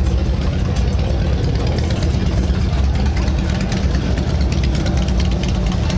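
Motorcycle engines idling and running steadily.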